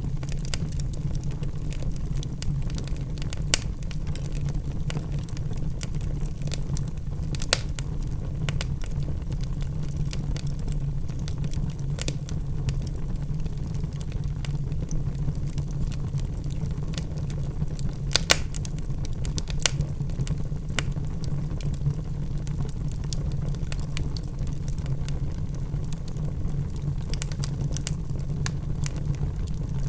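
Logs burning in a fireplace: a steady low rumble of flame with frequent small crackles and a few louder pops.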